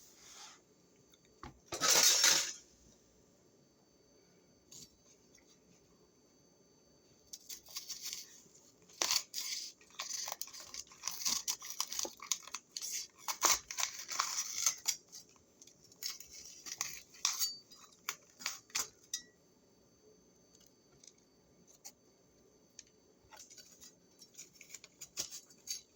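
Close-up eating and handling noises: a brief loud rustle about two seconds in, then crunching and clinks of dishes and cutlery, busiest in the middle and thinning out towards the end.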